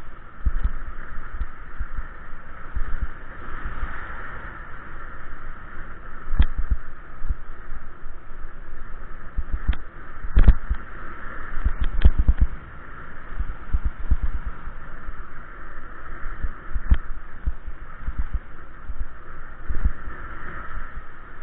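Wind buffeting the microphone on a moving bicycle, with a steady hiss and a few sharp clicks or knocks, the loudest bunched about ten to twelve seconds in.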